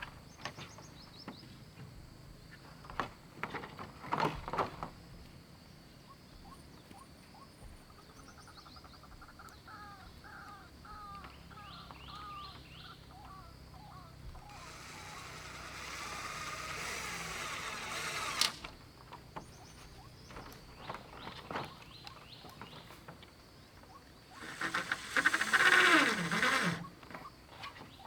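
Outdoor forest ambience: a steady high insect drone, a run of short repeated animal chirps in the middle, and scattered knocks. A few seconds of rising rustling noise cut off sharply with a click, and a louder burst of noise comes near the end.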